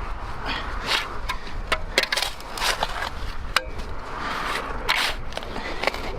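Irregular scraping and rustling with sharp clicks and knocks, the sounds of hand work with tools, over a steady low rumble.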